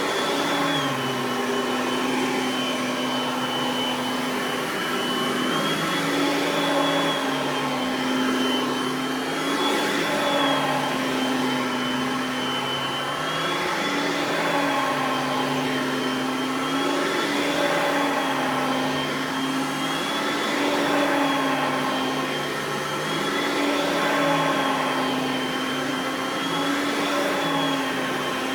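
Oreck XL Platinum upright vacuum running steadily, its motor pitch lifting and dipping slightly every few seconds.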